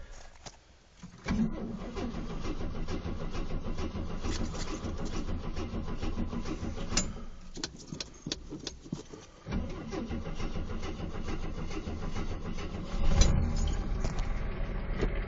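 The 258 inline-six of a 1974 AMC Gremlin being cold-started after sitting for months, with the choke set by pumping the pedal. It catches a little over a second in and runs unevenly, sags for a couple of seconds around the middle, then picks up again and is revved near the end.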